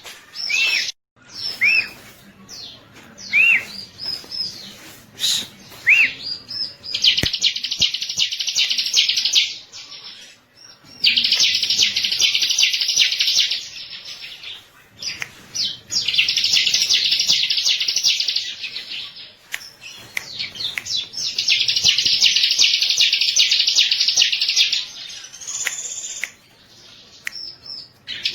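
Bar-winged prinia (ciblek) singing: four long, fast, rattling trills of a few seconds each, with short single chirps in between.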